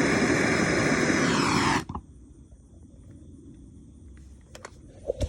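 Steady, loud rushing noise of the heat source heating a thermopile generator, which cuts off abruptly just under two seconds in. After that it is quiet, with a few small clicks near the end.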